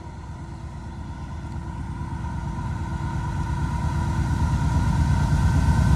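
Approaching CSX freight train's diesel locomotives, a low rumble with a faint steady whine above it, growing steadily louder as the train nears.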